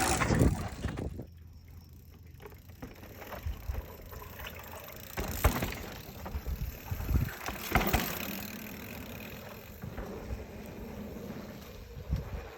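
Mountain bike rolling along a dirt trail: a loud rush of wind noise for about the first second, then tyre noise with scattered knocks and rattles from the bike over rough ground.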